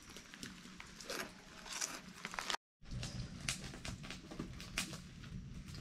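Faint crunching of a Cheetos chip being chewed, with light crinkles of the foil snack bag. About two and a half seconds in, the sound cuts out briefly and gives way to quiet woodland background with scattered small clicks.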